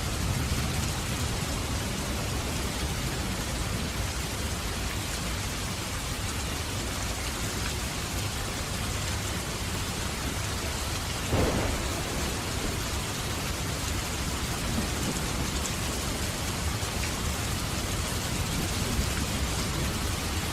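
Steady heavy rain falling, with a short, sharp crack of thunder a little past halfway through.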